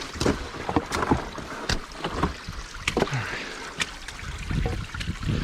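Footsteps climbing over rocks: irregular knocks and scrapes of boots and stones, several a second, with no steady rhythm.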